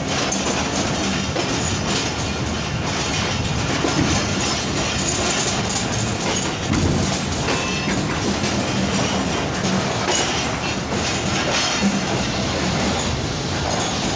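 Tezgam Express passenger coaches rolling along the track, heard from the open side of a moving coach: a steady rumble of wheels on rails with clickety-clack from the rail joints.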